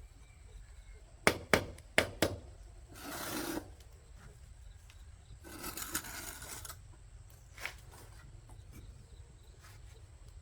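Four sharp knocks in quick succession, then two longer scraping sounds and one more knock.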